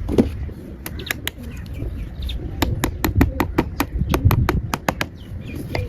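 Pigeon flapping its wings, a quick run of sharp wing claps through the middle of the stretch over a low rumble.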